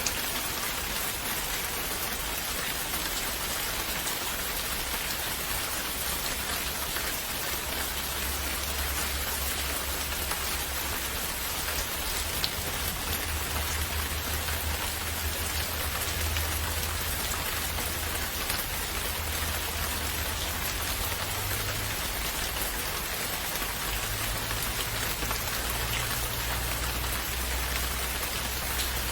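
Steady rainfall: an even hiss of rain with scattered drops pattering on a surface. A soft low rumble swells and fades under it in the second half.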